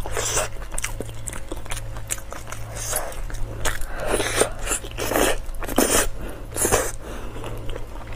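Close-miked biting and chewing of braised meat, a run of short bites and chews about every half second to second, strongest in the middle, over a low steady hum.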